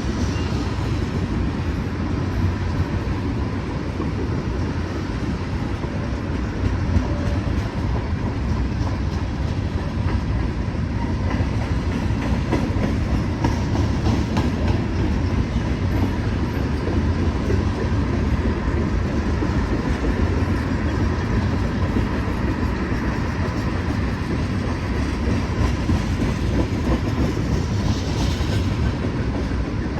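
Freight train cars rolling past, a steady low rumble with the clatter of steel wheels on the rails.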